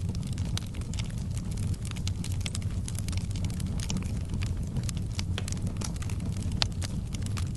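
Wood fire burning in a fireplace: a steady low rumble of the flames with frequent sharp crackles and pops, one louder pop about two-thirds of the way through.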